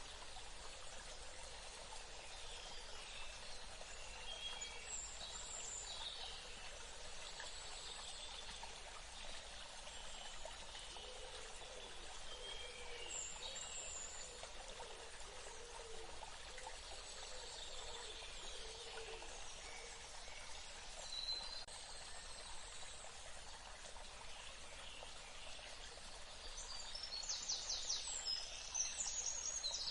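Steady rush of flowing water with birds chirping here and there; near the end a bird gives a fast, rapidly repeated call.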